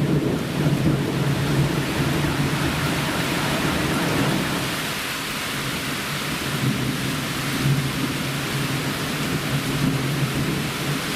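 Heavy rain falling steadily through a thunderstorm, with thunder rumbling low underneath, strongest near the start, easing midway and building again in the second half.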